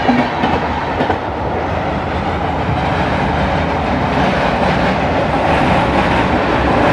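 Passenger train running along the track, heard from on board: a steady, loud noise of wheels on rails.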